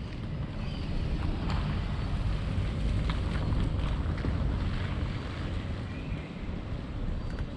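Wind buffeting the microphone: a steady, uneven low rumble, with a few faint short ticks above it.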